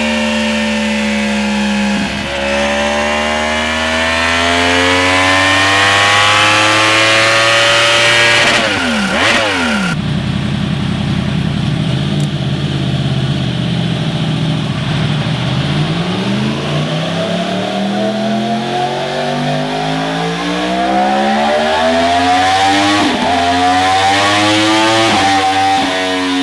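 Yamaha R1 inline-four with an aftermarket exhaust, accelerating through the gears: the engine note climbs, then drops sharply at each upshift. About nine seconds in, the pitch falls away steeply, and it runs lower and steadier for several seconds before climbing again.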